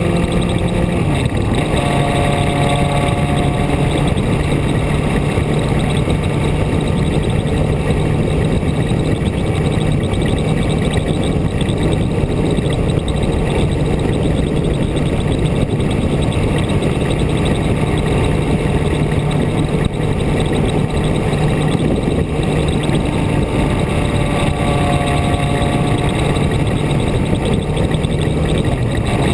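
Onboard sound of a vehicle engine running steadily while driving on a mountain road, with road and wind noise. The engine note drops about a second and a half in and rises again near the end, as with a change of gear or throttle.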